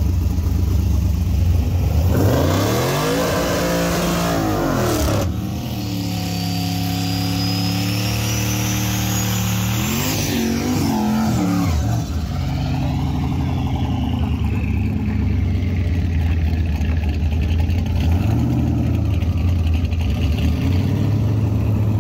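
Drag-racing car engines idling, then revving up and down, held at steady high revs for about four seconds, then revving and dropping back to a lower, steadier running sound.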